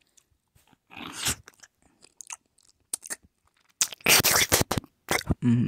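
Close-up crunching and chewing of someone biting into something, in scattered crackly bites at first and a dense, loud stretch of crunching near the end.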